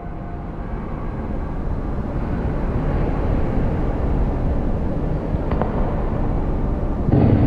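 A steady low rumble fading in, with a single sharp click about five and a half seconds in.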